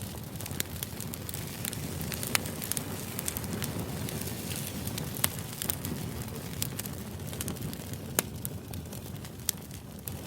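Crackling fire ambience: a steady low rumble with irregular sharp pops and snaps, a few louder than the rest.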